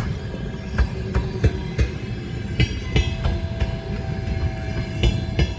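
Express passenger train hauled by a ChS7 electric locomotive rolling past as it departs the station: a steady rumble with irregular sharp knocks of wheels over rail joints and points.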